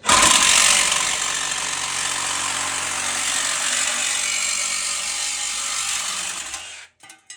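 Sawzall reciprocating saw cutting through a thick steel floor patch plate held in a vise, starting suddenly and running steadily until it stops near the end as the cut finishes. A few short metal clinks follow as the cut-off piece comes free.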